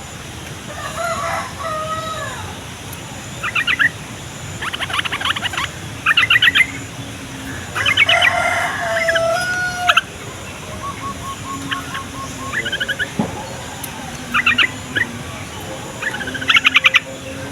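Yellow-vented bulbuls (trucukan) singing: short bubbly, rattling phrases repeated every second or two. A rooster crows in the background, about a second in and again about eight seconds in.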